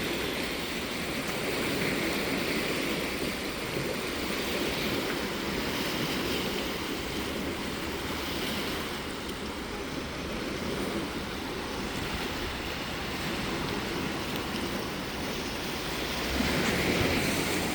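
Lake waves washing onto the shore: a steady rushing wash that swells and eases gently every few seconds.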